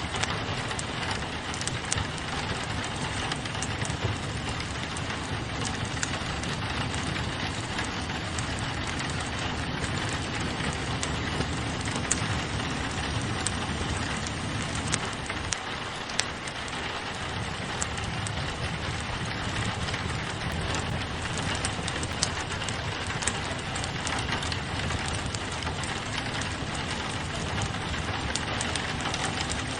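Steady rain pattering on a window, mixed with the crackle of a wood fire in a fireplace, with scattered small pops and snaps throughout.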